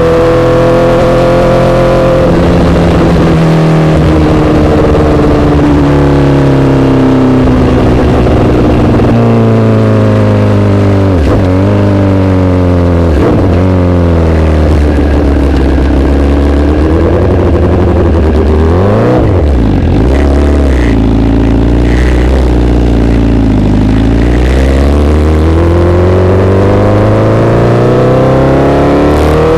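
Honda CBR1000RR inline-four engine running through an SC-Project aftermarket exhaust. Its note falls slowly for about fifteen seconds, with a couple of brief dips along the way, wavers, then rises steadily again near the end.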